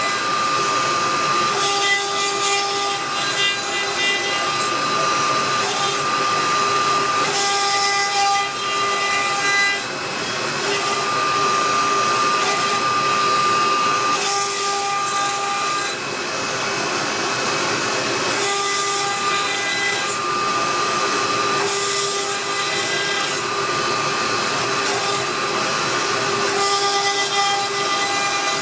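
CNC router cutting a carbon fibre sheet: a steady whine with tones that switch on and off as the machine moves, and bursts of hiss from the cut every second or two.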